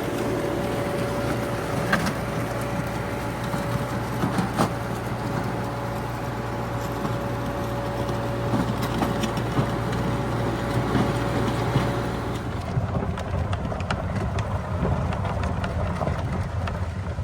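Allis-Chalmers HD5 bulldozer's diesel engine running steadily while working, with a steady whine over it. About twelve seconds in the whine stops and the engine note changes, with scattered clanks throughout.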